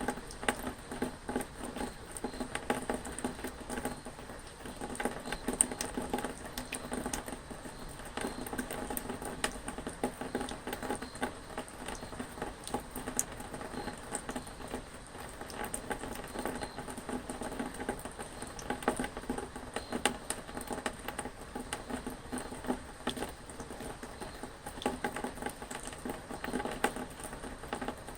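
Steady rain falling, with many small drops ticking irregularly and densely throughout.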